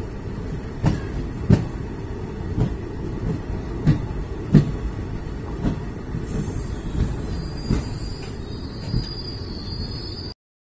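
Passenger train coach rolling slowly through a station: a steady low rumble broken by irregular clunks of the wheels over rail joints. From about six seconds in, a thin high squeal from the running gear joins as the train slows. The sound cuts off abruptly just before the end.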